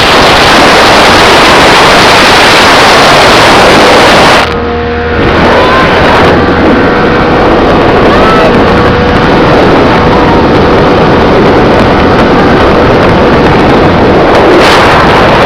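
Motorboat running under way, very loud: engine, rushing water and wind noise on the microphone. There is a brief dip about four and a half seconds in.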